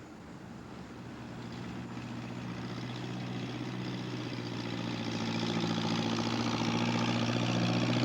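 Engine of a forestry log-lifting machine running steadily and growing louder as it approaches.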